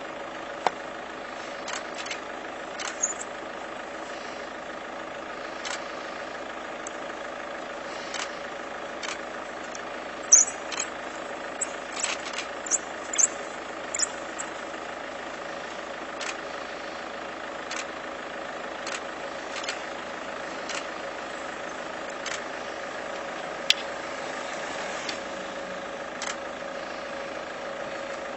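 Vehicle engine idling steadily, with scattered short clicks and a cluster of brief high-pitched squeaks about ten to fourteen seconds in.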